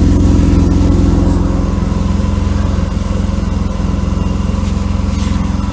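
Mercedes W124 300E straight-six idling steadily with a rough, lawnmower-like exhaust note, heard close to the exhaust: a section of exhaust pipe has broken, though the muffler and resonator are sound.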